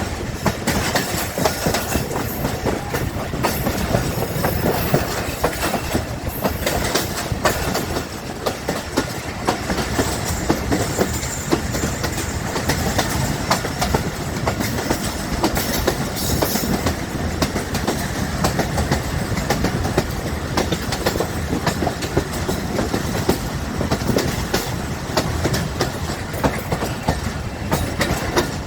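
Millat Express passenger train's coach wheels clattering over the rail joints, a dense run of quick clacks over a steady rolling rumble.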